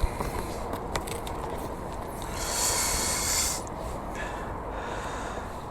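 Handling noises as a caught dusky flathead is measured in a kayak: a few light knocks in the first second, then a brief rustling hiss about two and a half seconds in, over a steady background hiss.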